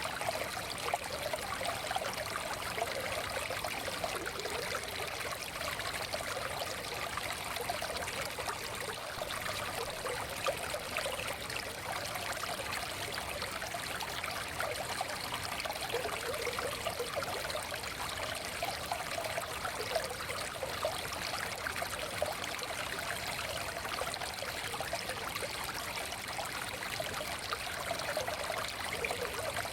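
Small forest stream flowing steadily over stones, a continuous babble of trickling and splashing water.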